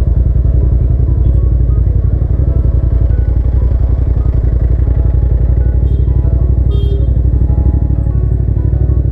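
Hyosung GT650's V-twin engine running steadily while the motorcycle is ridden, a loud, even low throb. A brief high-pitched chirp sounds about seven seconds in.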